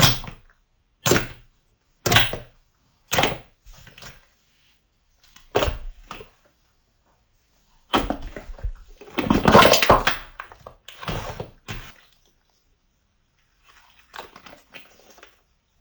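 Slime being squeezed and pressed by hand: a run of sharp squelching pops about a second apart, then a longer stretch of continuous squishing, and faint small pops near the end.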